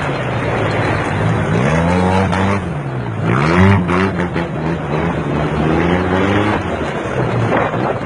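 Motorcycle engine revving, its pitch dropping and climbing again several times, then holding steadier.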